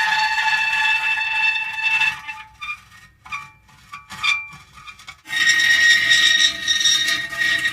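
Metal creaking: a long, drawn-out, several-toned creak, then a quieter broken stretch of short creaks and ticks, then another loud, sustained creak starting about five seconds in.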